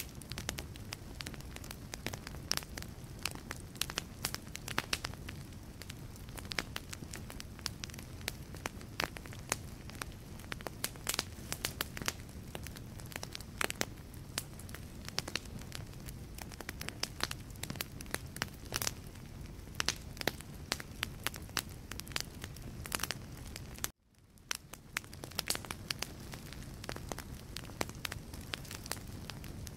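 Wood fire burning in a fireplace: logs crackling and popping in dense, irregular snaps over a steady low rumble of flame. About four-fifths of the way through the sound cuts out abruptly and fades back in over a second or two.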